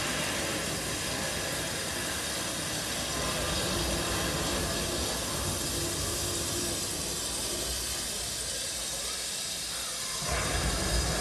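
Steady hiss of rain, most likely a rain sound effect opening the dance music; about ten seconds in, deeper sound comes in beneath it.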